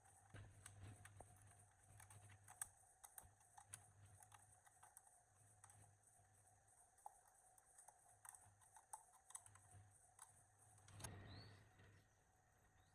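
Faint, irregular light clicks and taps over a low steady hum, with a brief soft rush of noise about eleven seconds in.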